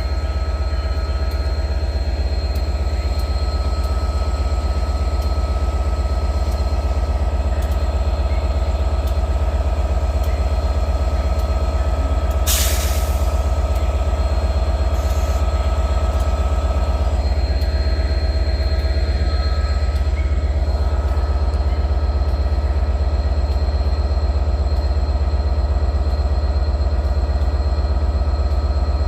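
Train at a station platform: a steady low hum with steady whining tones, and a short loud hiss of air about twelve seconds in, with a fainter one soon after.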